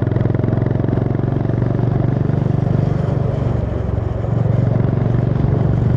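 Honda CB350 H'ness's air-cooled single-cylinder engine running under way, its exhaust beat steady, easing off briefly about four seconds in and then pulling again.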